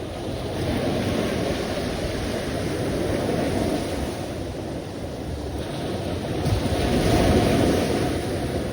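Sea waves breaking and washing in as a steady rush of surf, swelling louder about a second in and again near the end.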